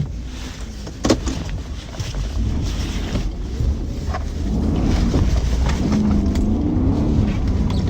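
Inside the cab of a 2009 Jeep Commander with its 5.7 Hemi V8 running while it is driven through snow: a steady low rumble, a sharp knock about a second in, then the engine note getting louder and wavering up and down in the second half.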